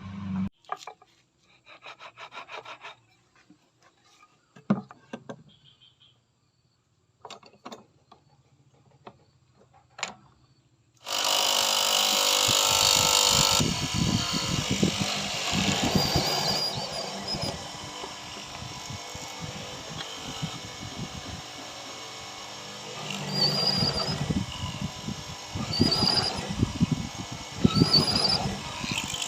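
Woodworking tool sounds: scattered light taps and short rattles, then about eleven seconds in a loud tool starts working the wood and keeps going with many quick, uneven strokes.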